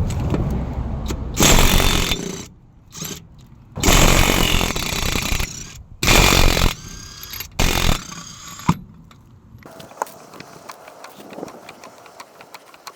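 A power wrench run in short bursts, four main bursts of about half a second to two seconds, with metallic clicks and rattles of the tools and parts between them.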